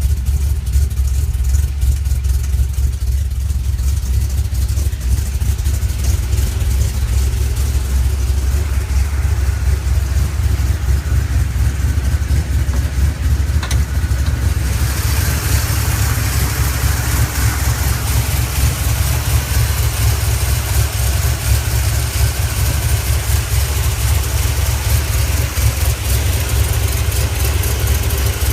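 Small-block 350 Chevy V8 with a Comp Cams Mutha Thumpr cam, breathing through Hedman headers and 2.5-inch Magnaflow mufflers, idling steadily with a deep exhaust note. A hiss joins in about halfway through.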